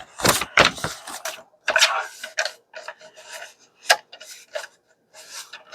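Paper pages being trimmed and handled: a series of irregular scraping, rustling strokes, with a sharp click about four seconds in.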